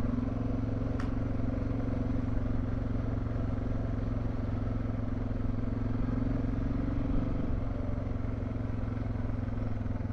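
Motorcycle engine running steadily under way, with a slight easing of the engine note about seven and a half seconds in.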